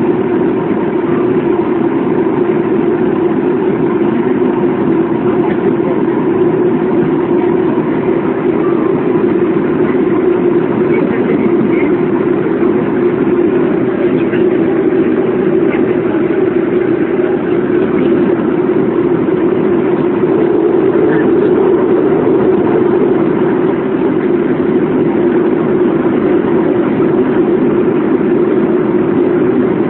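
Steady low drone of a Boeing airliner's engines and air system heard inside the cabin, swelling slightly a little past the middle.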